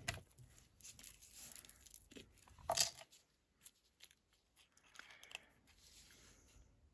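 Paper and small craft items rustling and being moved about on a work table, with scattered light clicks and one louder brief rustle about three seconds in, while glue is searched for among the supplies.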